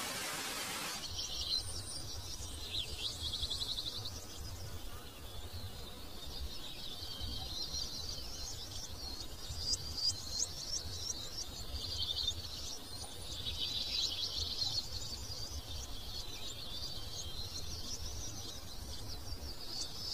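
A steady hiss that cuts off about a second in, then several birds chirping and singing over one another, with quick high trills and repeated short chirps.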